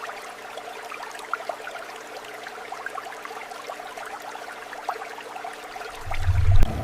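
Underwater ambience: a steady hiss full of small crackles and pops. About six seconds in, a deep low rumble swells up and cuts off sharply just before the end.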